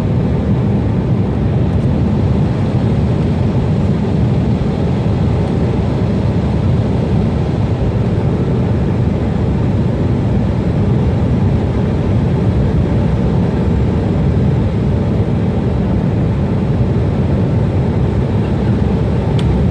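Steady, loud, low roar of a jet airliner's engines, unchanging throughout.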